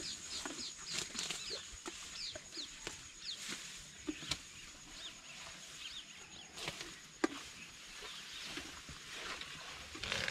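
Birds chirping: many short, high-pitched falling chirps in quick runs, with a few sharp clicks and a thin steady high tone underneath.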